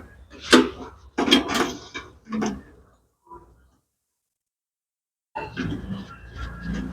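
Several sharp knocks and clatters, like parts being handled and set down, in the first couple of seconds, then a dead-silent break, then steadier handling noise near the end.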